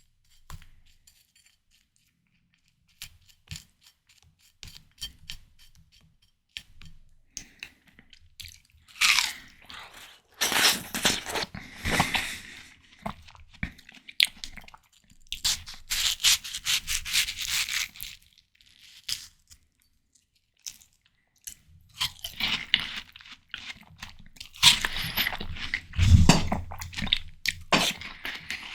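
Close-miked eating of ripe watermelon: crisp, juicy bites and wet chewing in three bursts, with faint soft clicks before the first bite.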